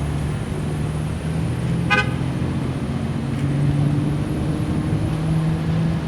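Car engine running steadily, with a short car horn toot about two seconds in.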